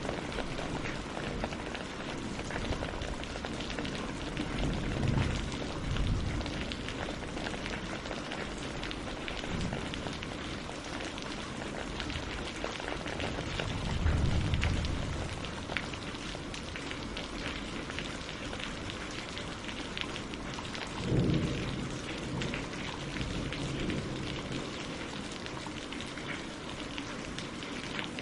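Steady rain falling on leaves and lake water, a dense, even hiss of drops. Three short low rumbles rise out of it, the loudest about halfway through.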